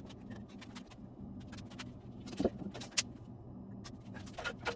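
A few light, scattered clicks and knocks of hand tools and metal engine parts being handled during an engine teardown, the sharpest about three seconds in.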